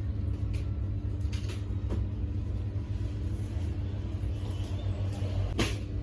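A steady low rumble with a faint steady hum above it, and a few short clicks and taps, the loudest about five and a half seconds in.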